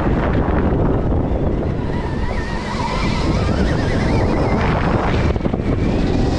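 Wind buffeting the microphone while riding a Stark Varg electric dirt bike, with the motor's high whine wavering up and down with the throttle.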